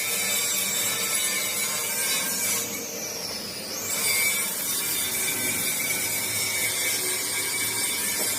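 Steady rasping and scraping of a tool worked against the rubber casing of a tractor tyre, with a high whine that dips and rises in pitch about three seconds in.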